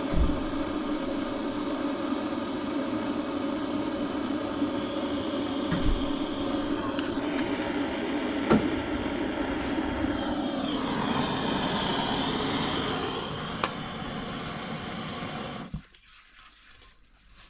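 Steady engine and road noise of a moving car, with the engine note falling as it slows about two thirds of the way through; the sound cuts off suddenly near the end.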